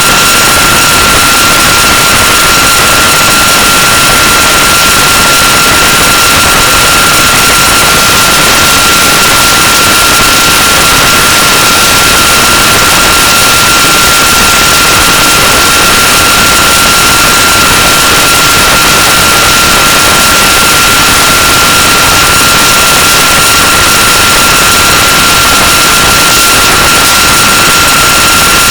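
Loud, perfectly steady hiss of noise with a steady high whistle-like tone running through it, unchanging throughout.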